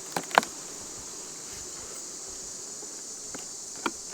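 Steady high-pitched chorus of crickets, with two quick sharp clicks at the start and another near the end from a wooden hive frame being worked loose.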